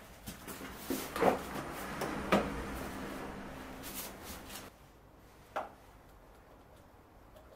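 A string of irregular knocks, clicks and scrapes of objects being handled in a small room. The loudest knocks come about a second and a half in and just after two seconds, then it goes quiet apart from a single knock late on.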